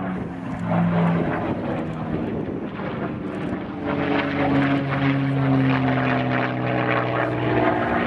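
Piston engine of a propeller-driven WWII warbird diving in on a pass, with a steady engine tone that grows louder about four seconds in as the plane closes.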